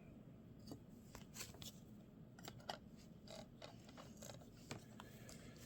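Faint, irregular clicks and slides of baseball trading cards being flipped through by hand.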